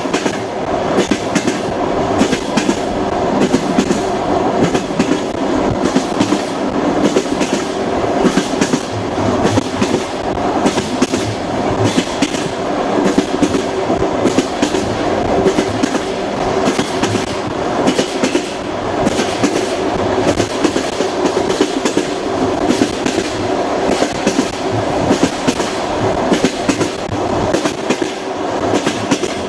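Passenger train wheels clattering rhythmically over the rail joints at speed, over a steady rumble of the rolling carriage, heard from inside the car.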